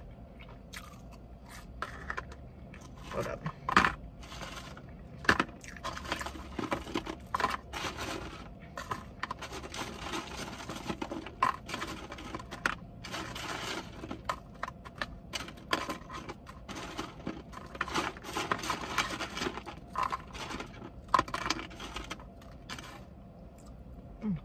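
Takeout food containers and food being handled and moved around, a string of short scrapes, clicks and rustles.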